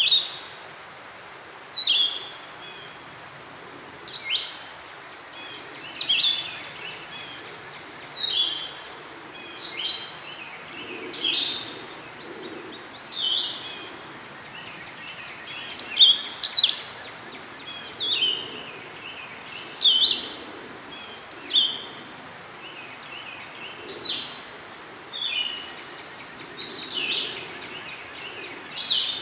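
A songbird singing short, sharp phrases over and over, about one every two seconds, over a faint steady hiss of the woods.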